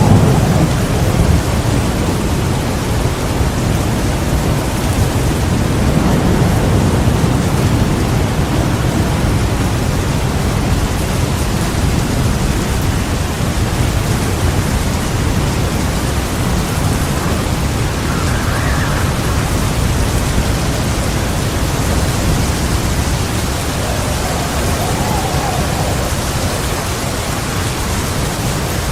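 Heavy rain pouring steadily with low rolling thunder rumbling underneath, swelling near the start and again a few seconds later.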